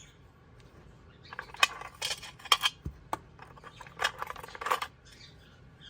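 Stones clinking and clattering as rock specimens are picked up and handled, in two short clusters of hard clicks.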